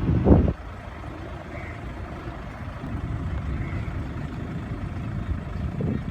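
Steady low rumble of an Airbus A330 on the ground before takeoff, after a short loud bump in the first half-second.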